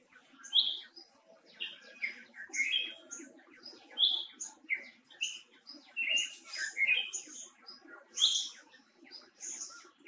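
Birds chirping: a busy run of short, high chirps several times a second, some piping higher than others.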